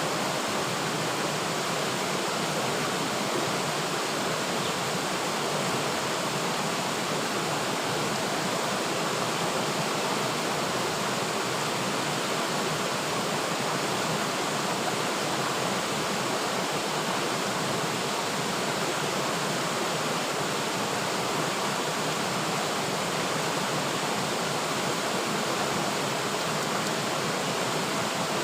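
River water flowing steadily, an even rushing hiss with no breaks or separate splashes.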